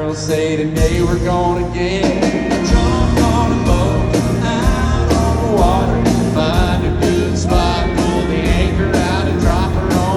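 Live country-rock band playing, with a steady drum beat and bending melody lines over it.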